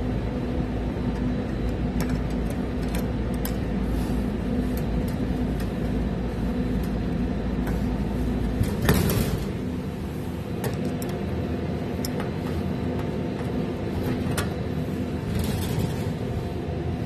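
Steady mechanical hum with a deep rumble from a precision air-conditioning cabinet's fans, with scattered clicks and knocks from the filters and panels being handled. About nine seconds in comes a louder rustling knock, and after it the deep rumble drops away.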